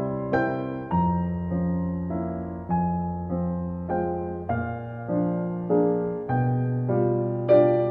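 Background piano music: a slow melody of single struck notes over held bass notes, each note fading after it is struck.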